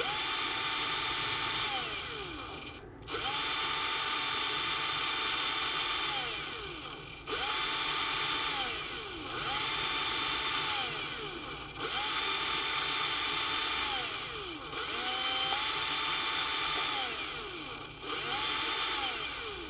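Electric screwdriver with a Torx bit backing out the screws of a microwave oven's outer cover: seven short runs of a steady motor whine, each falling in pitch as the motor winds down.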